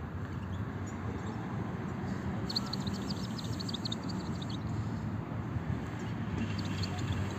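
European goldfinches twittering: a quick run of short, high chirps about two and a half seconds in and a few more near the end, over a steady low rumble.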